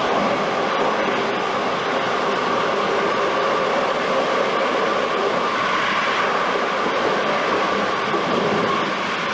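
Locomotive running at speed, heard from beside its cab window: a steady rush of air and rail noise, with a steady whine that grows stronger from about four seconds in.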